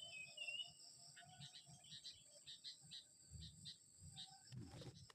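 Faint chirping of a young sooty-headed bulbul (kutilang): a few short gliding chirps in the first second, then quieter, quick repeated chirps through the rest.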